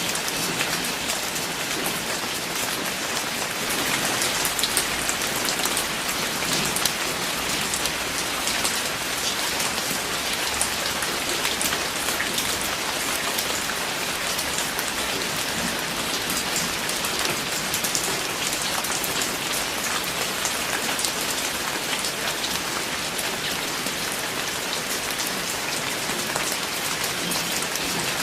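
Steady rain falling on a surface, a dense patter of many individual drops over a continuous hiss.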